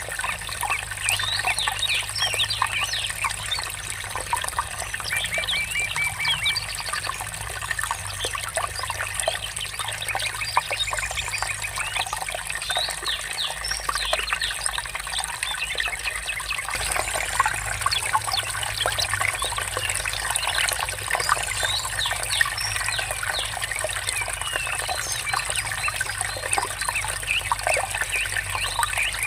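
Shallow water trickling and babbling steadily, with birds chirping over it, including a quick run of repeated notes.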